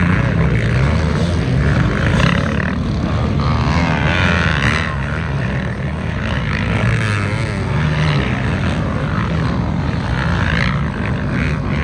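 Racing dirt bike and ATV engines running together, with pitches that rise and fall as riders rev and back off.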